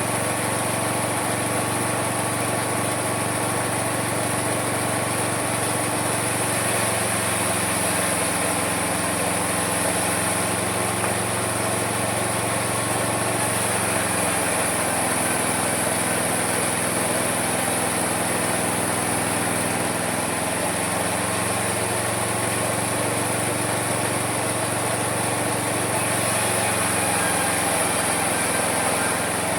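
Homemade mini sawmill running steadily and sawing wood, its motor pitch dipping and recovering in the middle as the cut loads it, over a constant high whine.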